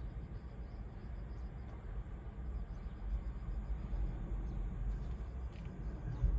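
Steady low rumble of wind on the microphone and surf breaking on the beach under a typhoon swell, with a sudden loud bump near the end.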